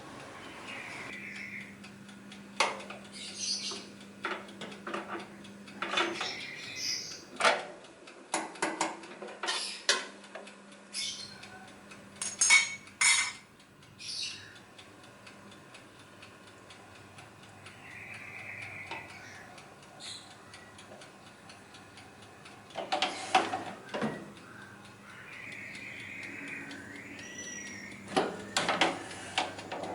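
Kitchen utensils and dishes clinking and clattering in irregular bursts, busiest in the first half, over a steady low hum.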